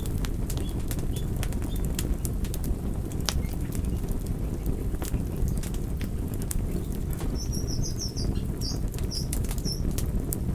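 Wood campfire crackling, with irregular sharp pops over a steady low rumble of flame. A small bird chirps several times about seven seconds in.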